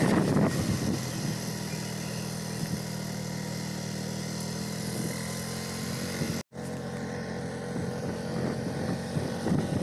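Motorcycle engine running steadily at a low, even pitch, with wind noise fading out in the first second; the sound cuts out for a moment about six seconds in.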